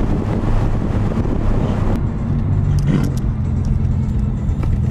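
Car engine heard from inside the car: wind and road noise for about the first two seconds, then a steady low engine drone. A brief sharp sound comes about three seconds in.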